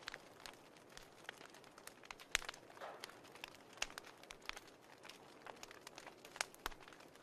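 Wood fire crackling: irregular sharp pops and snaps, a few a second, over a soft steady hiss, with the loudest pop about two and a half seconds in.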